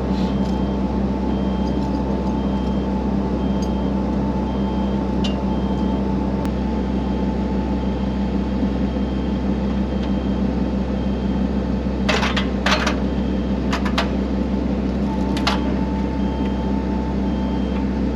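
Excavator's diesel engine running steadily, with a faint high beep repeating about once a second and a few sharp metallic knocks about twelve to fifteen seconds in.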